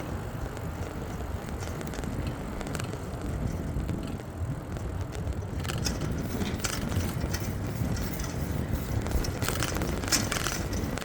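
Bicycle being ridden, with low rumble of wind and road on the microphone; from about halfway through, irregular clicks and rattles from the bike join in.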